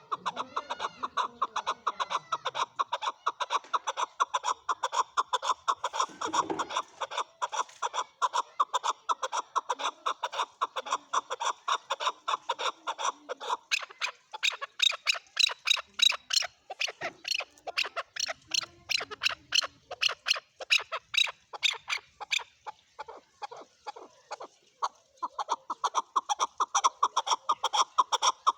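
Male chukar partridge calling a long, fast series of repeated chuck notes, about four or five a second. Through the middle stretch the notes turn higher and thinner, and the lower chuck notes return near the end.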